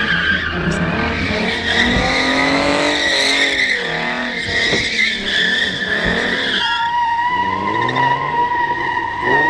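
Car tyres squealing in long, continuous screeches as cars slide, over engines revving up and down. About seven seconds in, the squeal settles to a lower, steady pitch.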